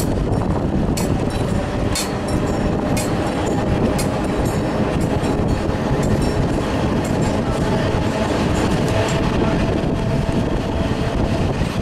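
Genova–Casella narrow-gauge electric train running along the track: a steady, loud rumble of wheels and carriage, with sharp clicks about once a second in the first few seconds as the wheels cross rail joints.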